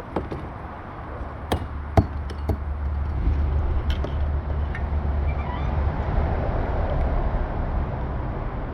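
A few sharp knocks and scrapes as a buried piece of metal is worked loose from the riverbed. Under them is a low rumble that swells through the middle and fades near the end, traffic crossing the highway bridge overhead.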